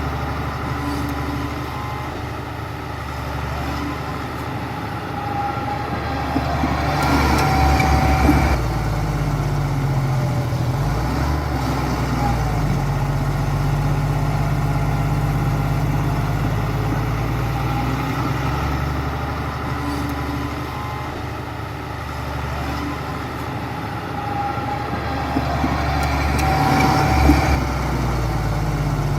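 Diesel engine of heavy earthmoving machinery running steadily. It grows louder and harsher twice, about a quarter of the way in and again near the end.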